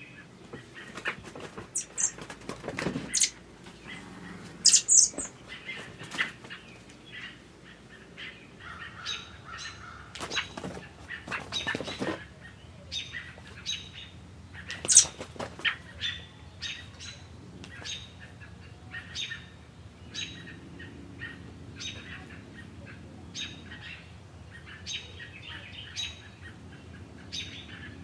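Birds chirping: short high calls throughout, a few loud shrill calls in the first half, then a chirp repeating about once a second in the second half. There are a few short rustles or knocks in between.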